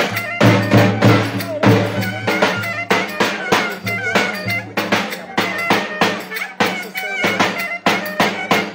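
Live dance music with fast, steady drumming and a high melody instrument playing a wavering tune over it.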